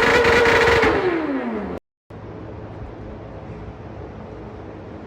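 Vehicle engine held at high revs, its note falling as the throttle is let off about a second in. The sound then cuts off abruptly, and a much quieter steady rumble follows.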